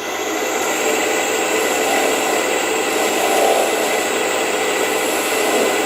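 Wood lathe running while a turning tool cuts away wood: a steady, rough cutting noise that holds level throughout.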